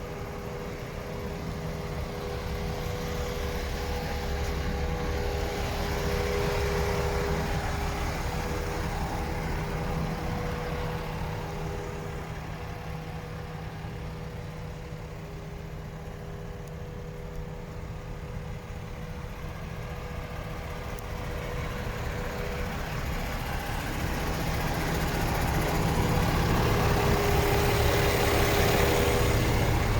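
MAN TGS 18.400 truck's six-cylinder diesel engine idling steadily, swelling louder twice and easing off in between.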